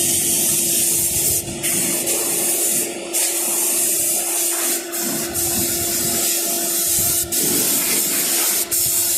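Car-wash pressure washer spraying water, a steady hiss over the steady hum of its pump, cut off briefly several times as the spray stops and restarts.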